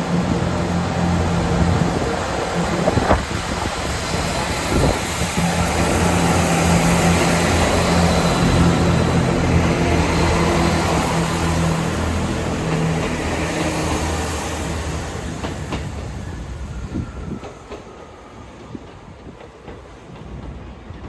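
Diesel train engine running steadily close by, then fading away over the last several seconds as it draws off, with wheels on the rails.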